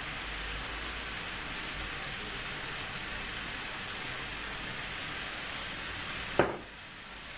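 Beronok and vegetables sizzling steadily in a pan on a gas stove, just after oyster sauce has gone in. A single knock comes near the end, after which the sizzle is a little quieter.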